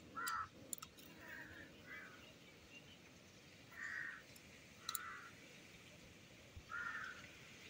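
Faint bird calls: about six short calls spaced irregularly, with a couple of faint clicks between them.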